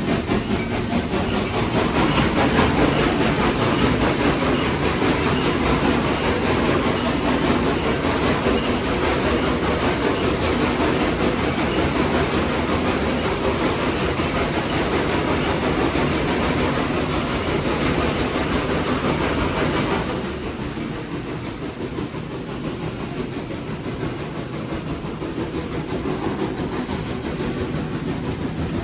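Nevada Northern No. 81, a Baldwin 2-8-0 steam locomotive, working up a grade, heard from inside its cab: a dense, steady din of exhaust, running gear and rail noise. About twenty seconds in it drops in level and turns duller.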